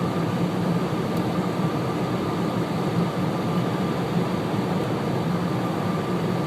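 Steady road and engine noise inside a car's cabin while driving at about 45 mph on a snowy highway, an even hum with no changes.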